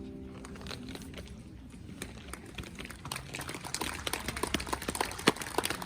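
Wood campfire crackling: sharp, irregular pops and snaps that come thicker from about two seconds in, over a low rumble.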